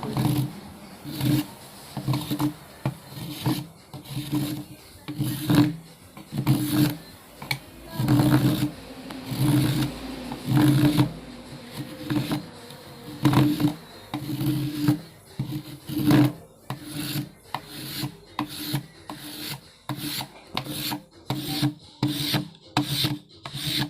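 Repeated back-and-forth strokes of a hand tool rubbing on wood, about one a second at first and speeding up to about two a second in the later part.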